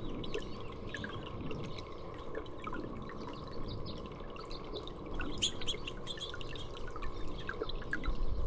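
Small songbirds chirping and calling in short scattered notes, busiest about five seconds in, over the steady drip and trickle of water.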